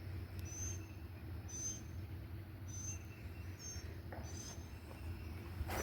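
A small bird chirping: short, high, slightly rising chirps about once a second, over a low steady rumble.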